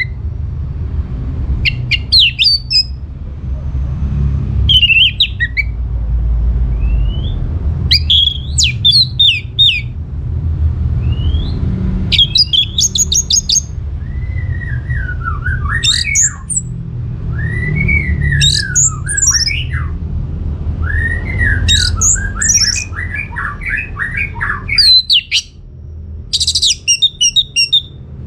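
Orange-headed thrush singing a varied song in short phrases with gaps between: slurred rising-and-falling whistles and quick, high rapid note runs, over a steady low hum.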